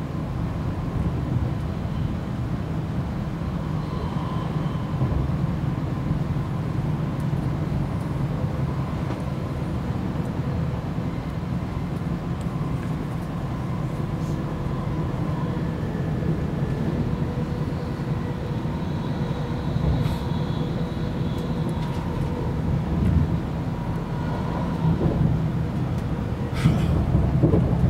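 Cabin noise inside a Virgin Trains Class 390 Pendolino electric train running at speed: a steady low rumble of wheels on track with a faint hum, growing louder with a few sharp clicks near the end.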